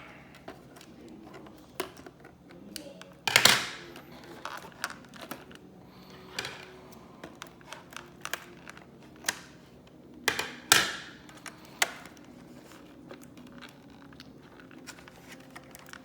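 Scissors and hands working on toy packaging: scattered clicks, snips and crinkles of plastic and cardboard, with two louder short rustling snips about three seconds in and again near eleven seconds.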